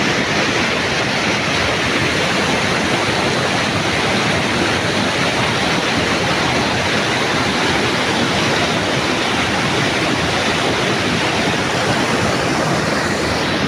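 Fast river current rushing steadily. The river is running high and muddy after heavy rain upstream.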